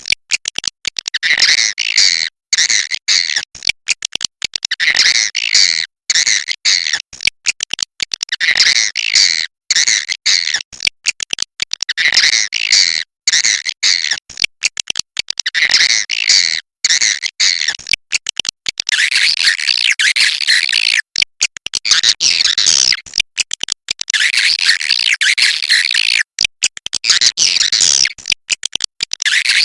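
Swiftlet calls: dense, high chattering chirps in phrases that repeat about every four seconds, becoming almost continuous near the end.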